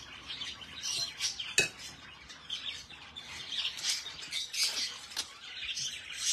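Caged birds chirping repeatedly, with one sharp clink of a spoon against a bowl about one and a half seconds in.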